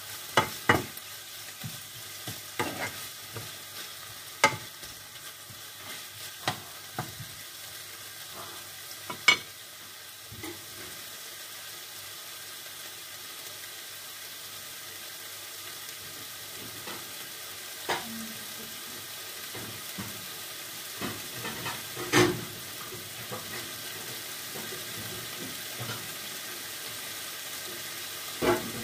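Sliced chicken breast and onion frying in a pan with a steady sizzle. A wooden spatula stirs and knocks against the pan now and then, most often in the first ten seconds.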